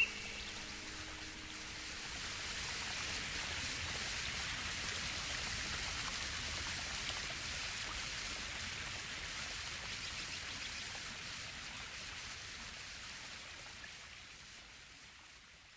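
Steady rushing of water, as of a forest stream, swelling over the first few seconds and then slowly fading out. A last held music note and a short bird chirp die away in the first second.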